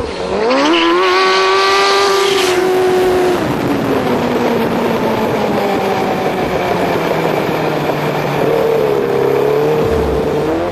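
Kart with a Suzuki GSX-R1100 inline-four motorcycle engine under hard acceleration: the revs climb sharply at the start and hold high, then drop away slowly and pick up again near the end.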